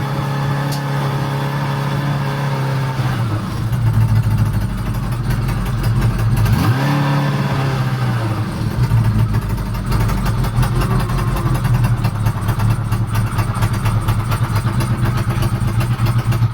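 1988 Kawasaki GT750's air-cooled inline-four engine running after new pickup coils, not yet idling right. The engine speed shifts a few seconds in and dips briefly about a third of the way through before picking up again.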